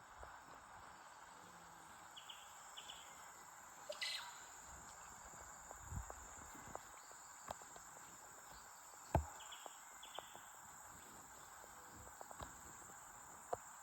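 Rainforest insects droning with a steady high-pitched buzz. Twice a pair of short chirps sounds, and a few soft knocks come and go.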